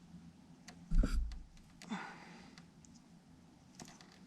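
Small clicks from wiring and connectors being handled, with one heavy low thump about a second in and a short breath just after.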